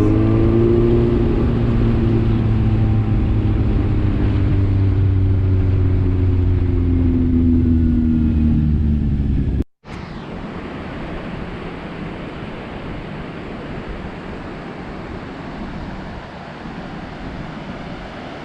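Kawasaki Z750 inline-four motorcycle engine running, its pitch sinking slowly, heard from the onboard camera. About ten seconds in it cuts off abruptly and gives way to a steady rushing noise like surf or wind, with no engine tone.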